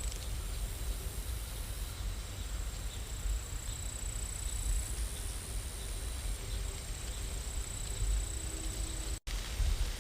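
Steady rain noise with a low rumble underneath. It drops out for an instant about nine seconds in.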